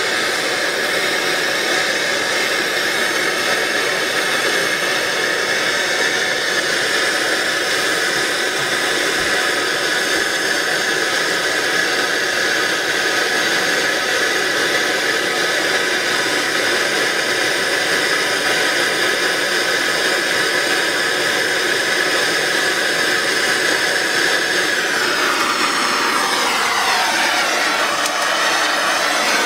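A motor-driven machine running with a steady whirring rush. Its pitch rises as it spins up at the start, holds steady, then falls as it winds down over the last few seconds.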